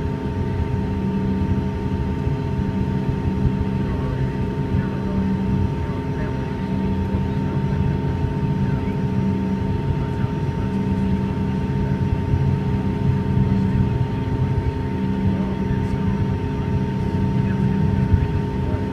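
Steady cabin noise inside a Bombardier CRJ-200 during taxi: the twin rear-mounted GE CF34 turbofans at idle, with a constant whine and a low hum that swells and fades about every two seconds.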